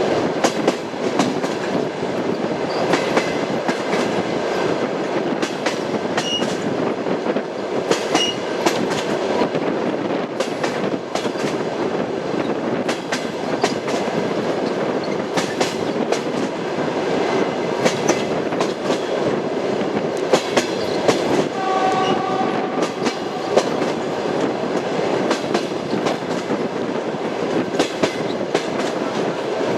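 Passenger train running at speed on jointed track, its wheels clattering over the rail joints in a steady rumble broken by irregular sharp clicks. A brief tone sounds about two-thirds of the way through.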